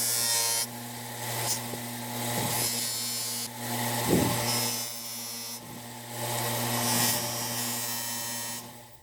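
A small electric power tool running with a steady hum while an abrasive wheel works metal. The rough grinding noise swells and fades as the part is pressed on and eased off, and it all stops suddenly near the end.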